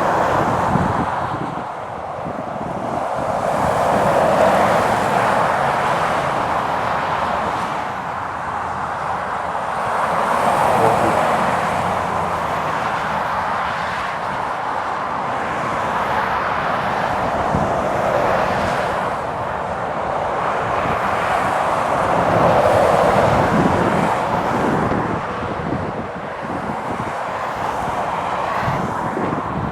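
Trucks and other traffic passing on a wet trunk road in wind and rain. Tyres hiss through the spray and engines run, the sound swelling and fading several times as each vehicle goes by.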